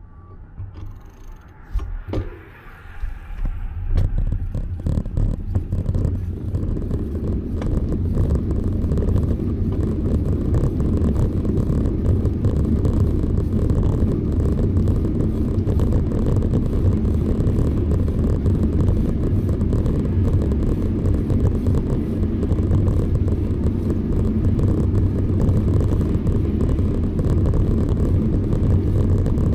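Steady low rumble of wind buffeting and tyre noise from a moving bicycle, building over the first few seconds as the bike gets up to speed, with a few knocks and clicks early on.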